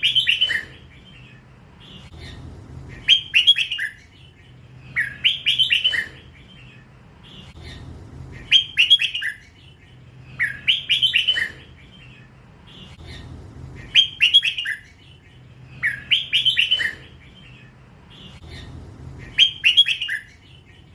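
Red-whiskered bulbul, a young bird still in its first plumage, singing the same short phrase of quick whistled notes eight times, about every two and a half to three seconds. This is the drawn-out 'lak wai' song style valued in Thai bulbul keeping.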